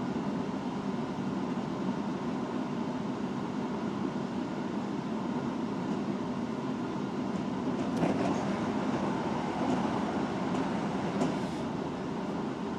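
Osaka Metro 66 series electric train running between stations, heard from inside the car: steady wheel and running noise, with a couple of sharp clicks in the second half.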